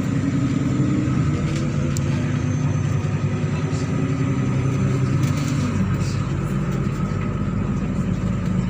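MAZ-103 city bus's diesel engine running while driving, heard from on board over road noise. The engine note drops about six seconds in.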